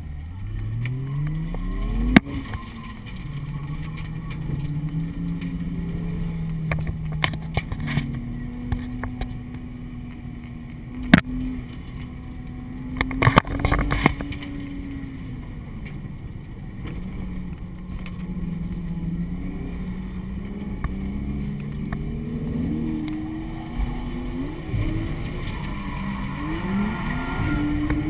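Drift car's engine heard from inside the cabin, revving hard, climbing steeply in pitch at first and then rising and falling as it is worked through the corners. A few sharp bangs cut through it, a cluster of them about halfway.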